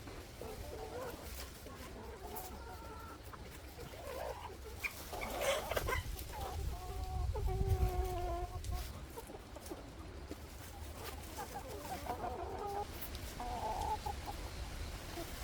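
Chickens clucking, a series of short calls with one longer drawn-out call about seven seconds in, over a steady low rumble.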